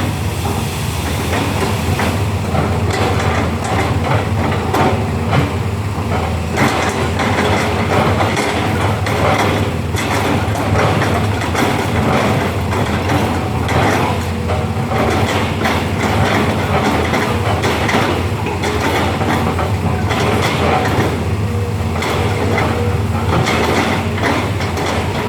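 Heavy tracked earthmoving machine's diesel engine running steadily under load, with continuous irregular metallic clanking and clatter.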